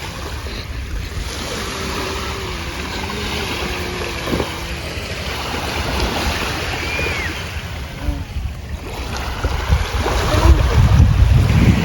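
Sea waves washing on the shore, with wind buffeting the microphone, the wind rumble growing stronger near the end.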